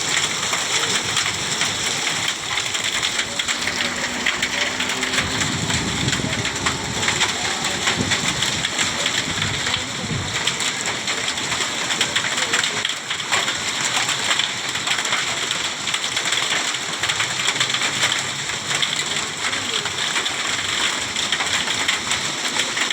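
Steady heavy rain, a dense even hiss of drops pattering on hard surfaces.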